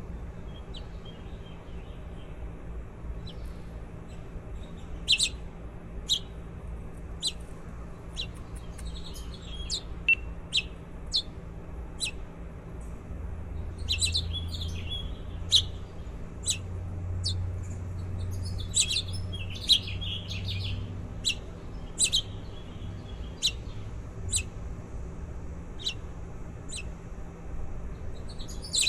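Baby birds chirping: short, sharp high peeps about one to two a second, bunching into quick clusters now and then, over a steady low hum.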